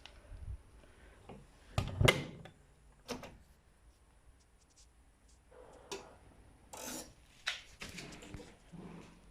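Whirlpool FL 5065 washing machine running a wash: irregular knocks and rubbing as the drum turns the load. The loudest knock comes about two seconds in, then a lull, then a cluster of knocks in the second half.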